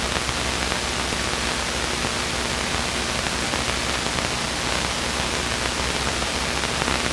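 Steady hiss of a light aircraft's cockpit heard through the intercom audio feed, with a faint low engine drone underneath.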